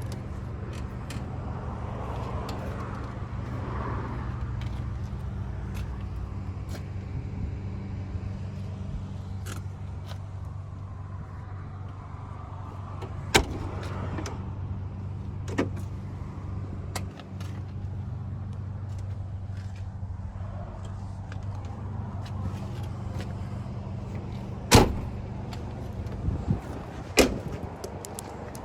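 A steady low engine hum runs under a handful of sharp clunks of a pickup's passenger-side door being handled, the loudest a little before the end.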